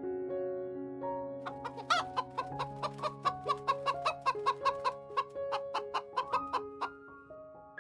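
A hen clucking: a run of short, quick clucks at about four a second, with one longer call near the start, over background piano music with held notes.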